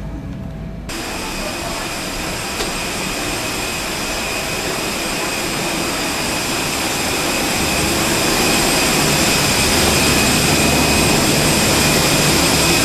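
Airbus A320 cabin noise at the gate: a steady rush of air with high, even whining tones, growing slowly louder, which starts abruptly about a second in.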